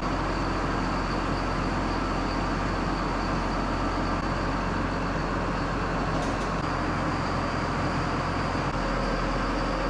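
Tractor engine running steadily at idle, an even low hum with no change in speed.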